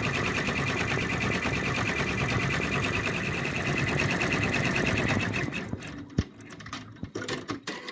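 Computerized embroidery machine stitching rapidly as it sews out a wing outline in felt, the needle running in a fast even rhythm; it stops about five and a half seconds in, followed by a sharp click and a few light knocks.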